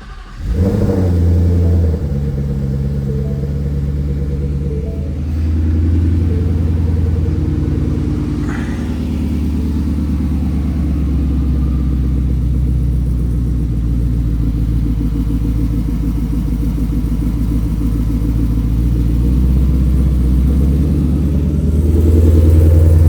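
Twin-turbocharged Ford Coyote 5.0 V8 in an S550 Mustang catching right at the start and then running steadily, a little louder near the end. With the turbos in the exhaust it sounds quiet, almost like a stock Mustang.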